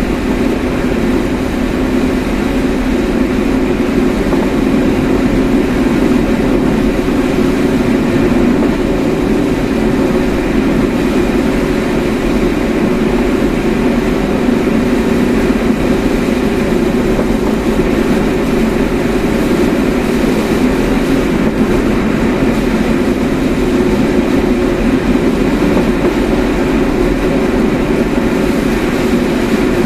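Steady road and engine noise of a car being driven, heard from inside the vehicle.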